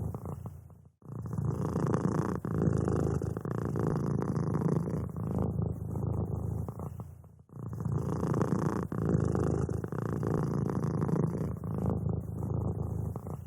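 Domestic cat purring steadily in long, even stretches, with brief breaks about a second in and again a little past halfway.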